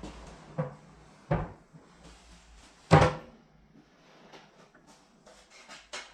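Hard knocks and clatters of tools and objects being handled and set down. The loudest knock comes about three seconds in, followed by lighter clicks and taps.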